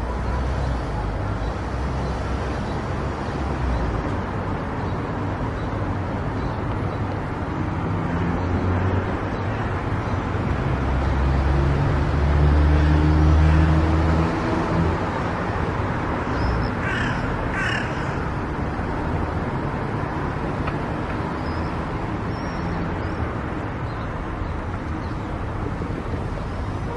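Car driving on a country road: steady tyre and road noise with engine hum, swelling to a louder low rumble for a few seconds in the middle. Two short bird calls come just after the rumble.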